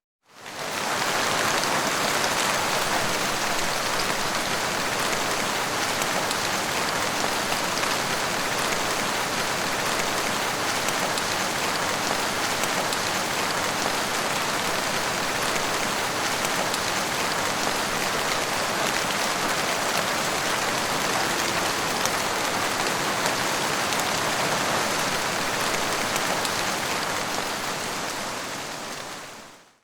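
Steady rain falling: an even hiss of many drops. It fades in just after the start and fades out just before the end.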